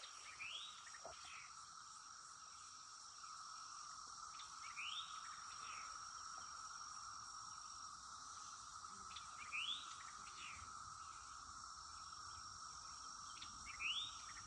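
Cicadas droning in a steady, high chorus. A short two-part sweeping call, rising then falling, repeats about every four to five seconds over it.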